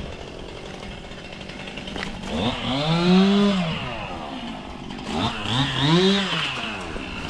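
Chainsaw engine revved up twice, about three seconds apart, its pitch rising and falling each time.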